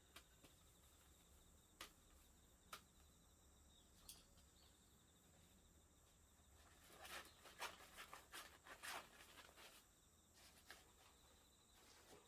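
Faint crackles and clicks from a small wood fire burning in a wood stove: a few isolated pops, then a denser run of crackling about seven to nine seconds in, over a faint steady high tone.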